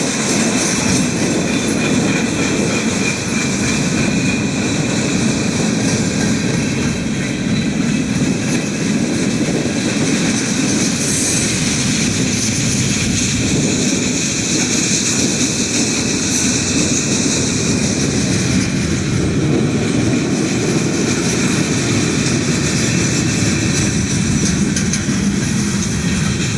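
Norfolk Southern mixed freight train's cars rolling past on the rails, a steady rumble of wheels with a clickety-clack over the rail joints.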